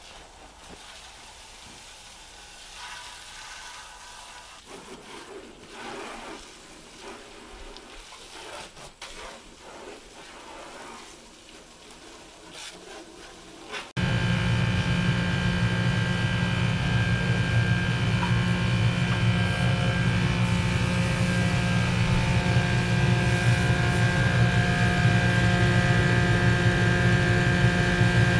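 Faint rustling and light knocks, then about halfway through a loud, steady machine hum with a low drone and several steady tones starts abruptly and keeps running.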